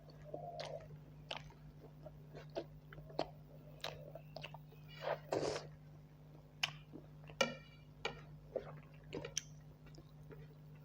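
Close-miked chewing of rice and buffalo curry: irregular wet smacks and clicks of the mouth, a few per second, over a steady low hum.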